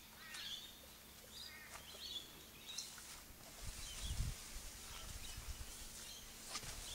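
Small birds chirping in short, scattered calls over a faint outdoor background; about halfway through, a low rumble joins in.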